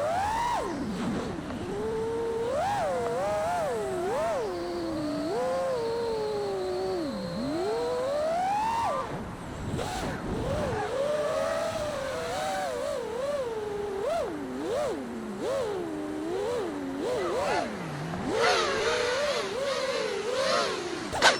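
Brushless motors and propellers of a 5-inch FPV freestyle quadcopter (T-Motor Pacer 2306 1750kv) whining in flight, the pitch swooping up and down constantly with the throttle. A sudden loud hit comes right at the end.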